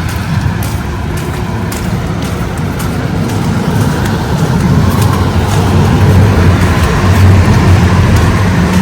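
A motor vehicle's engine running close by, a low rumble that grows louder toward the end as it nears.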